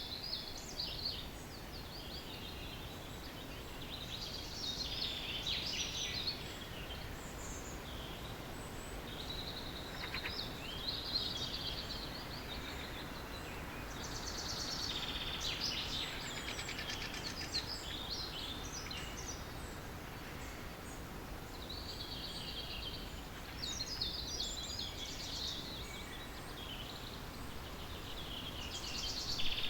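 Early-morning chorus of several songbirds singing in short phrases that overlap one another, over a steady low background rumble.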